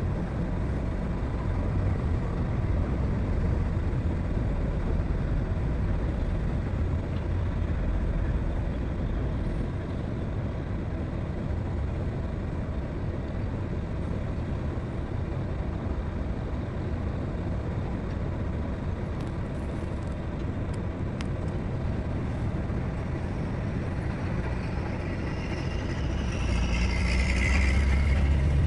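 Heavy diesel machinery running steadily with a low rumble, with a louder engine surge near the end.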